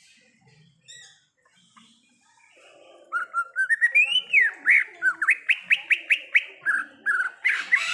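Cucak ijo (green leafbird) singing: after a quiet start, a loud, fast run of sharp whistled notes, many sweeping quickly upward, from about three seconds in, ending in a harsher burst.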